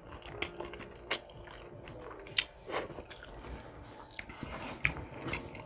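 Close-miked chewing of a mouthful of spaghetti, with wet mouth clicks and smacks scattered through it.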